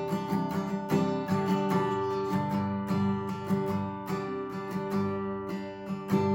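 Worship music: an instrumental passage with a strummed acoustic guitar playing steady chords, with no singing.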